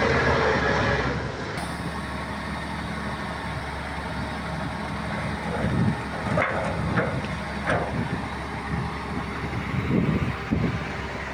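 Heavy diesel earthmoving machinery running steadily, a little louder for about the first second, with a few short sharp clanks or squeaks about six to eight seconds in.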